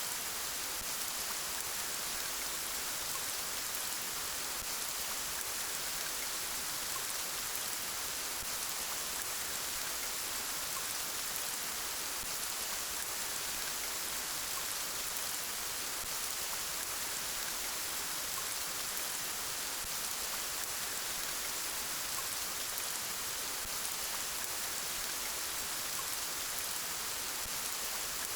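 Gentle rain falling steadily, an even hiss with no thunder or single loud drops standing out.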